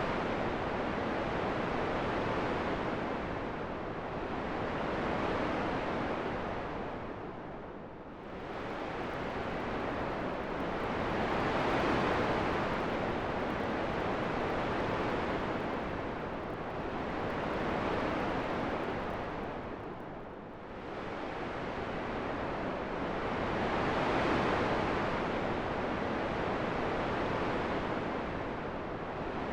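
Wind rushing, swelling and easing in slow gusts, with two deeper lulls: about a quarter of the way in and again about two-thirds of the way through.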